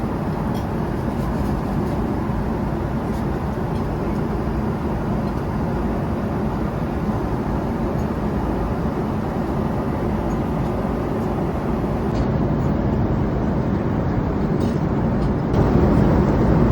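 Airliner cabin noise in flight aboard a Boeing 777-300ER: the steady rumble and rush of the engines and airflow, a little louder in the last second.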